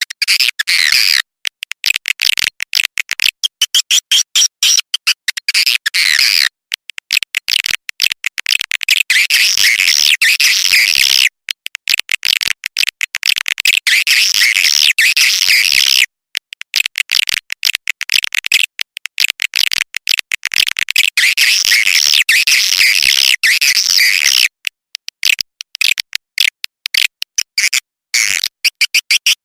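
Swiftlet lure call: recorded swiftlet twittering, a fast, dense stream of high chirps in runs of a few seconds broken by brief silent gaps.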